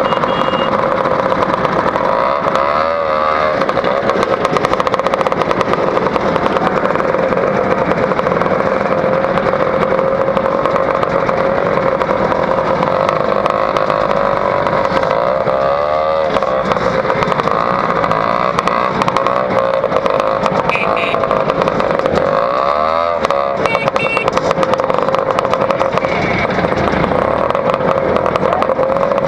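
Two-stroke Lambretta scooter engine through an AF reverse cone exhaust, running steadily on the road with a constant note, and a few brief whooshes along the way.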